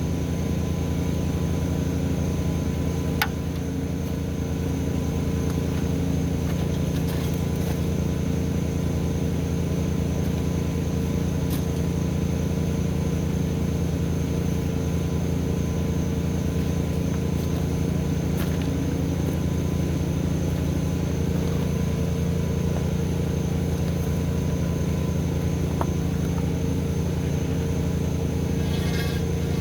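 An engine running steadily at constant speed, with a few faint clicks.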